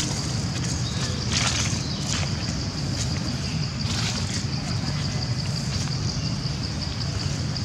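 Outdoor background noise: a steady high-pitched buzz and a low rumble, with a few brief rustles and faint voices.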